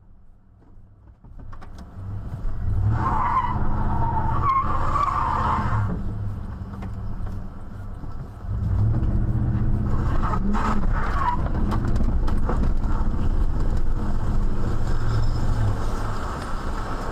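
A motor vehicle's engine running loudly, swelling in after a quiet first second or so and briefly rising in pitch about ten seconds in.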